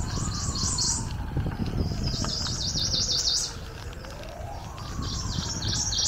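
A songbird singing three phrases of quick repeated high notes, over a faint siren slowly wailing up and down twice and a steady low rumble.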